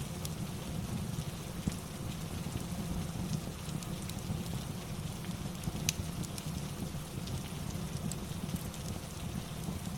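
Steady rain with a low rumble, mixed with the occasional sharp crackle and pop of a fireplace; one louder pop about six seconds in.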